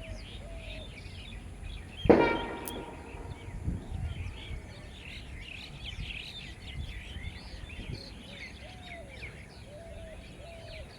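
Many small birds chirping over a low background rumble, with a repeated lower curved call. About two seconds in there is one sudden loud knock with a brief ringing tone that fades within half a second.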